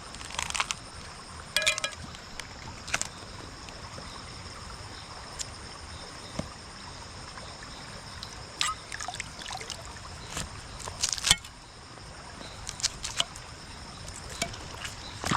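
Scattered splashes and sharp knocks, like someone moving through shallow water, over a steady high-pitched drone of night insects.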